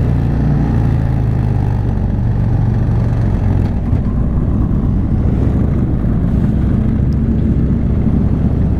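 Motorcycle engines running steadily, a low continuous drone.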